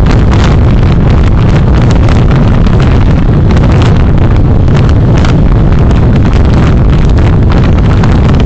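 Loud, steady rumble of road and wind noise picked up by a car's dashcam microphone while driving, with faint knocks from bumps in the road.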